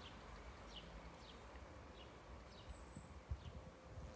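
Faint bird chirping: a short falling chirp repeated about six times, roughly every half second to second, over a low outdoor rumble with one low bump about three seconds in.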